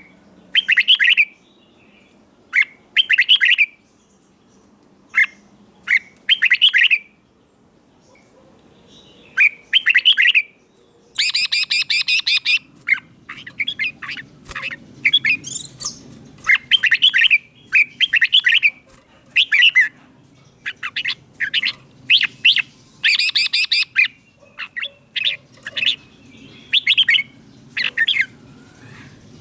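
Red-whiskered bulbul singing loud, short, clear phrases again and again with brief pauses between them, in denser runs about a third and again about three quarters of the way through.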